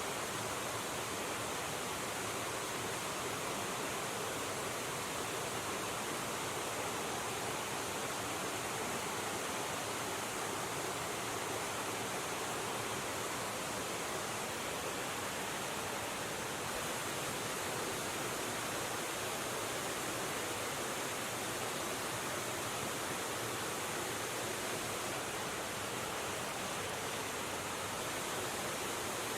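River water rushing steadily, an even hiss with no breaks or changes.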